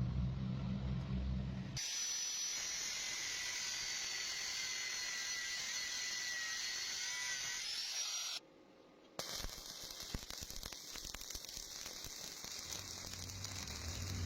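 Stick-welding arc crackling and hissing steadily on steel, with many sharp pops in the second half. The sound cuts out for under a second around the middle, then resumes.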